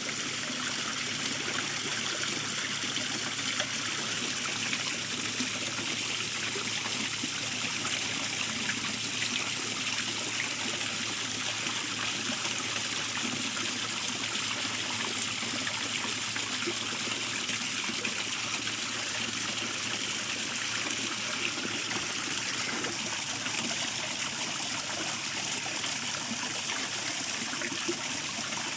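Water running steadily over the spillways of a rebuilt waterfall, a continuous trickling and splashing.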